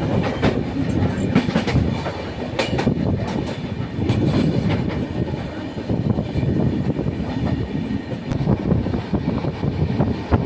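Train running on the rails: a steady low rumble with irregular sharp clacks of the wheels over rail joints.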